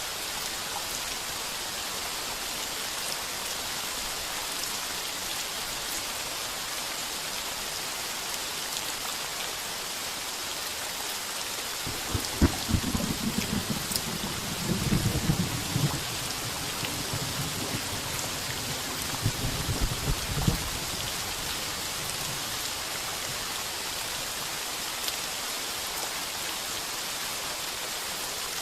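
Heavy rain falling steadily on a tin roof. About twelve seconds in, a crackling roll of thunder rumbles for around eight seconds before fading back into the rain.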